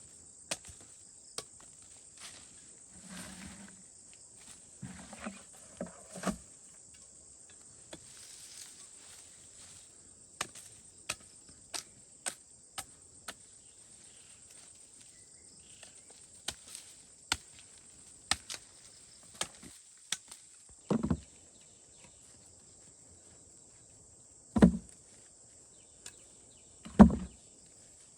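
Steady high chirring of insects, with scattered sharp clicks and knocks and three heavy thuds in the second half.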